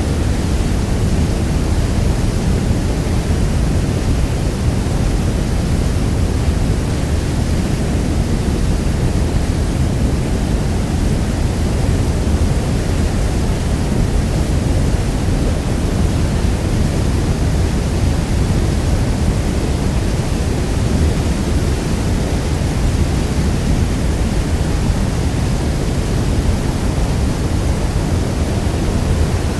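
Niagara Falls: the steady, unbroken roar of a large waterfall, a deep rush of falling water with most of its weight in the low end.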